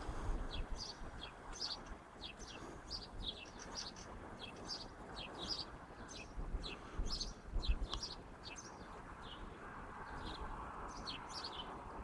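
Small birds chirping: many short, high, falling chirps repeated a few times a second, over a low outdoor hiss and occasional low rumbles of wind on the microphone.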